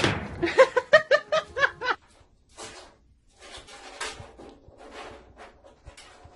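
A sudden loud noise, then a quick run of about eight high-pitched laughing cries in under two seconds, followed by softer scattered rustles and knocks.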